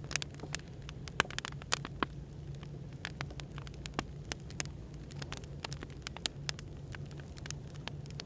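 Burning firewood crackling, with irregular sharp pops a few times a second, over a steady low hum of background noise.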